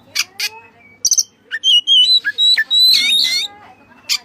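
White-breasted Oriental magpie-robin (kacer) singing: a few sharp clicking notes, then from about a second in a busy run of clear whistles and quick up-and-down slurred phrases, loudest in the middle of the song.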